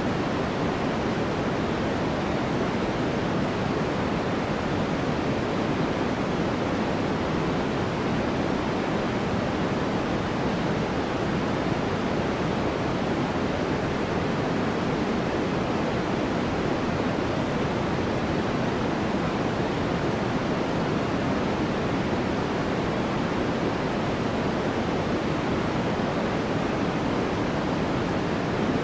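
Steady white noise for sleep: an unbroken, even rushing hiss, fuller in the lower range than in the treble, that does not change.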